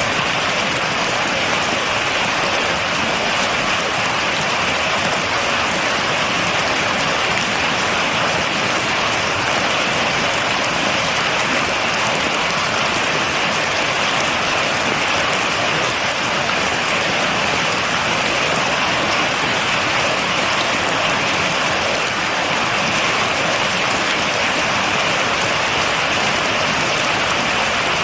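Steady heavy rain falling and pattering on surfaces, an even hiss with fine drop clicks throughout.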